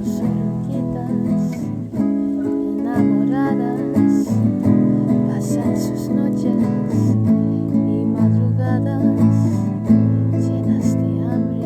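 Acoustic guitar playing, plucked chords and single notes ringing on as the chords change.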